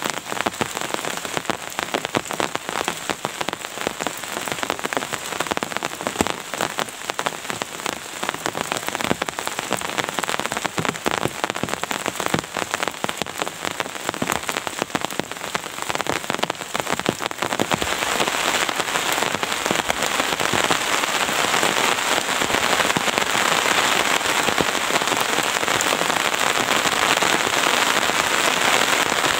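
Rain falling on a surface: many separate drop hits at first, then a little past halfway the rain grows heavier and louder into a steadier hiss.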